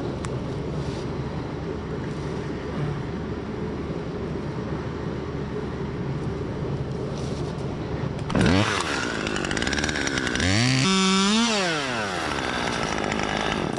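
Two-stroke chainsaw idling steadily, then revved up hard about eight seconds in, held at high speed briefly and let fall back toward idle.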